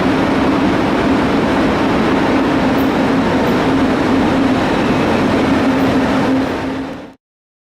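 Electric train running past at close range: a steady loud rush of wheels on rail with a steady hum. It fades out and cuts off near the end.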